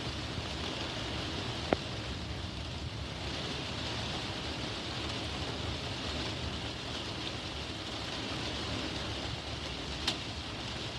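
Steady rain in a thunderstorm: an even hiss with a low rumble under it. Two sharp ticks stand out, about two seconds in and near the end.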